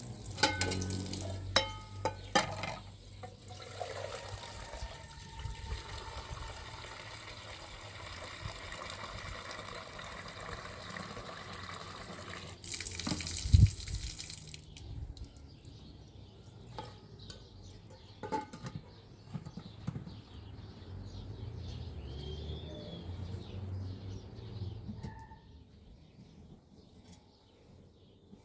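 Water running and splashing, with knocks and clicks of handling; it grows louder for a moment about thirteen seconds in, then gives way to quieter scattered splashes and clicks.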